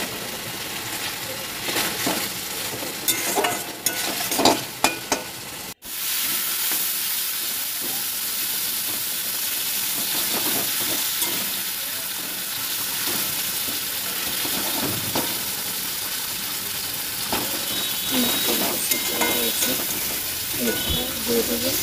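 Spiced potatoes and tomato sizzling in oil in a metal karahi while a steel spatula scrapes and clinks against the pan as they are stirred. The stirring strokes come thick in the first few seconds and again near the end, with a steady frying hiss in between. The sound breaks off for an instant just before six seconds in.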